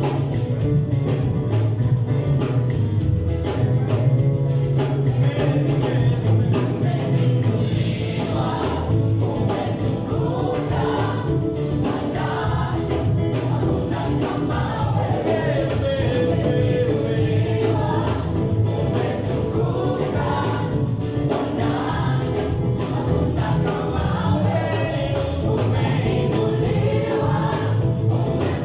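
Live gospel worship music: a band with drums plays steadily and a choir sings, the voices standing out from about eight seconds in.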